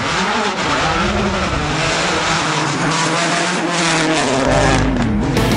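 Racing car engine revving hard, its pitch rising and falling. A deep steady low tone joins about four and a half seconds in.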